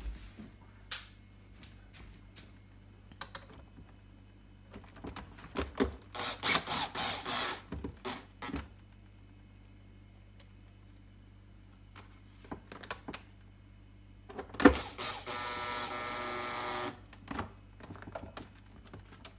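Clicks, taps and plastic rattling as the fridge door's divider flap is handled and clipped back into place, with a burst of rattling about six seconds in. About two-thirds of the way through comes a sharp knock, then a steady buzzing hum for about two seconds that cuts off suddenly.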